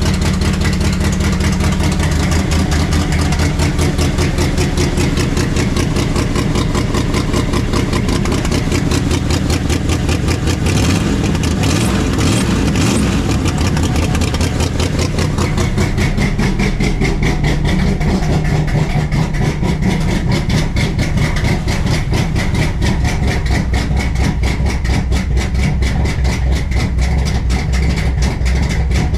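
1968 Dodge Charger's 383 big-block V8 idling on a cold start with its exhaust cutouts closed, running steadily with a lumpy firing pulse. It picks up briefly around eleven to thirteen seconds in, and the idle note settles lower after about sixteen seconds.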